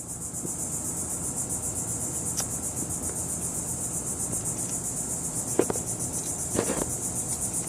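Insect chorus, a steady, rapidly pulsing high chirping like crickets, with a few faint knocks in the second half.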